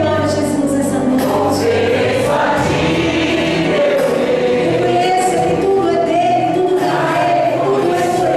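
A church choir singing a gospel hymn in several voice parts over an instrumental accompaniment, with long held notes.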